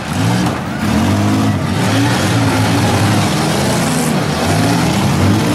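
Several demolition-derby minivan engines revving up and down over and over.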